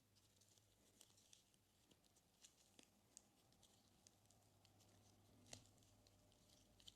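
Faint, scattered sticky crackles and clicks of slime being pressed and stretched by hand, with one sharper click about five and a half seconds in. A low steady hum sits underneath.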